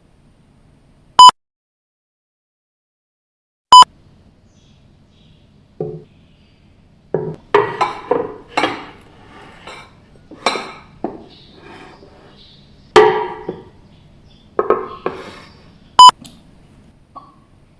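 Three short, loud electronic beeps at one pitch, about a second in, near four seconds and near the end. Between them come a run of short, irregular clinking and vocal sounds, the loudest about thirteen seconds in.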